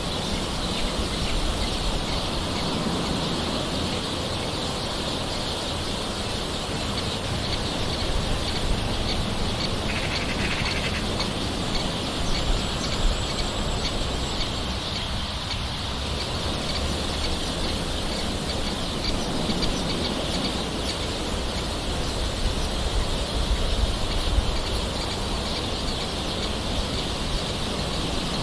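Light rain falling steadily, with birds calling in the background throughout.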